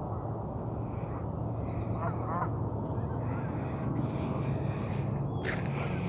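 Several birds calling at once, with short chirps and thin high calls over a steady low rumble. A sharp call sweeps downward about five and a half seconds in.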